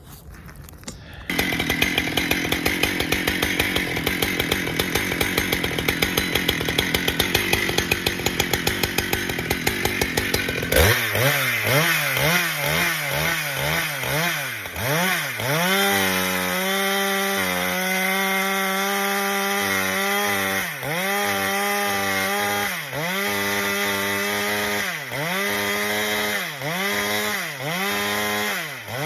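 Husqvarna chainsaw running at full throttle in red oak. From about eleven seconds in, the engine pitch drops and climbs back again and again, roughly once a second. It is not cutting well; the owner blames high rakers and a dull chain.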